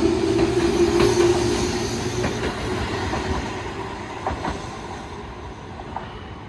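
Tobu 8000-series electric commuter train pulling away from the platform. Its wheels click irregularly over rail joints, and a low hum from the last car fades in the first couple of seconds as the train recedes, the whole sound growing steadily fainter.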